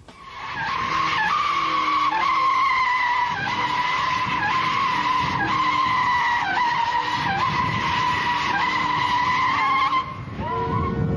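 Car tyres squealing through a long controlled drift: a steady high screech that dips briefly in pitch several times. It stops about ten seconds in and gives way to a lower rumble.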